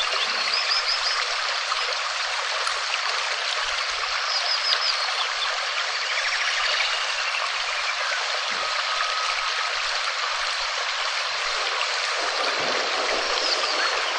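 Steady rainfall, an even hiss, with a few faint high chirps.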